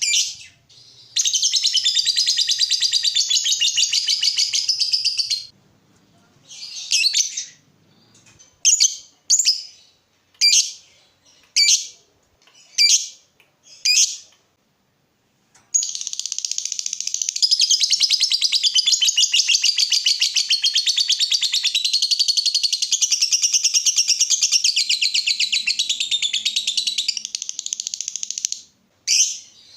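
Lovebird singing: a run of rapid, high chattering song lasting a few seconds, then a string of single sharp chirps about once a second, then a much longer unbroken chattering run of over ten seconds.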